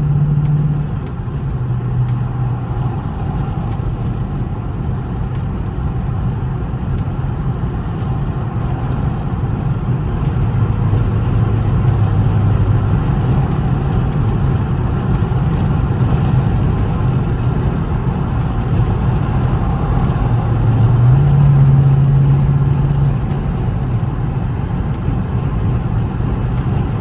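Dodge Charger R/T's 5.7-litre Hemi V8 cruising on the highway, its exhaust drone loud through a mid-muffler and resonator delete. The low drone holds steady and shifts pitch a few times with small throttle changes, swelling briefly about 21 seconds in.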